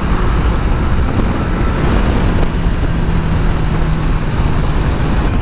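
Kawasaki Z900 inline-four engine running on the move, under heavy wind rush; the engine settles into a steady note about halfway through.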